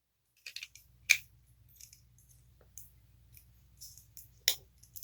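Scattered sharp clicks and ticks of plastic spinning-top parts being handled and switched between modes, with the two loudest clicks about a second in and near the end. A faint low hum comes in under them about half a second in.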